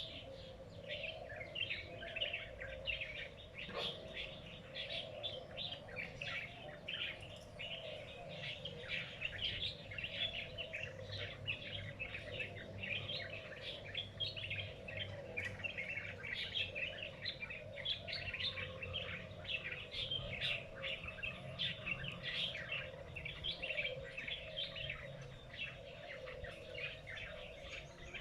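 Small birds chirping rapidly and without pause, a dense stream of short high calls, over a steady low hum.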